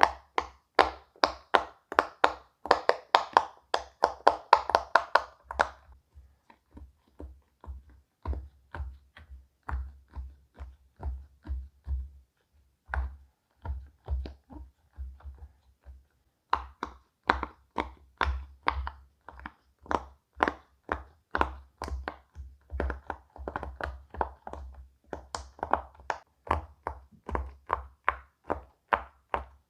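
Silicone pop-it fidget toy bubbles being pressed one after another: a steady run of sharp pops, about two or three a second, fainter for a stretch in the middle.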